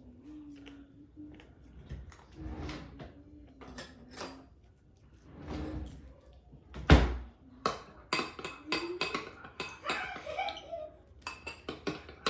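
Spoon clinking and scraping against a bowl while mayonnaise and mustard are stirred together, with one loud knock about seven seconds in. A faint low hum runs under the first few seconds.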